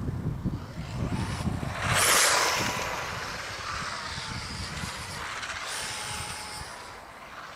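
A 1:10 electric RC car passes close by at speed: a hiss of tyres and drivetrain swells to its loudest about two seconds in, then fades away, with a faint thin motor whine lingering. A low rumble runs underneath.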